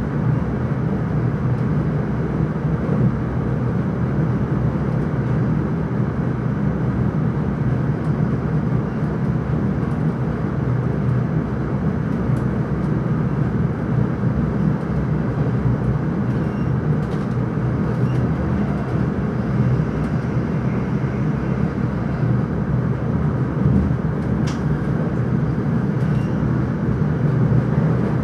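Electric intercity train running at speed, a steady running noise of wheels and motors heard from inside the driver's cab.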